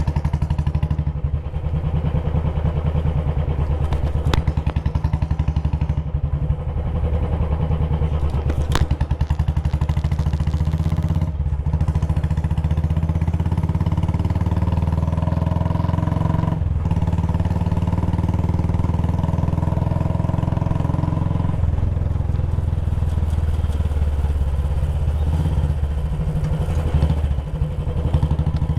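Royal Enfield Classic 350's single-cylinder engine running under way, its exhaust giving a steady stream of even beats. The note changes about two-thirds of the way through, as the throttle or gear changes.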